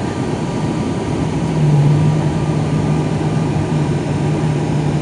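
Cabin noise of an ATR 72-500's twin turboprop engines and propellers: a steady rushing drone, with a loud low hum setting in about a second and a half in and holding steady.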